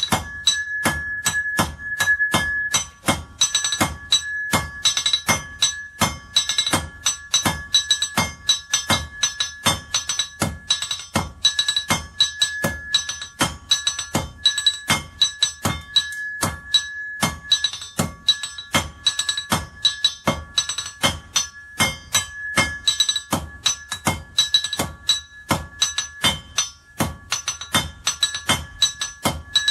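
Hammer blows on hot iron over an anvil, struck in a fast, steady rhythm of about three to four a second, each blow followed by a high metallic ring.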